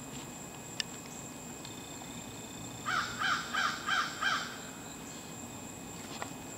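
A bird calling: a quick run of five calls about three seconds in, over a steady background hiss.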